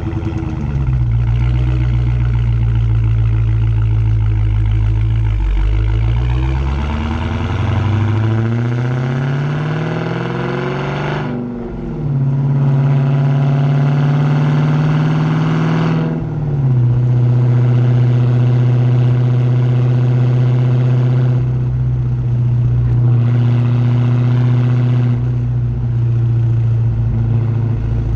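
Dodge Hellcat's supercharged Hemi V8 exhaust under way with a manual gearbox. The engine note rises as the car accelerates, drops at an upshift near the middle and at another soon after, then holds a steady pitch as it cruises.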